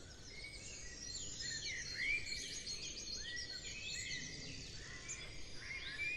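Several small songbirds chirping and singing over a steady low background noise, with a quick rapid trill about four seconds in.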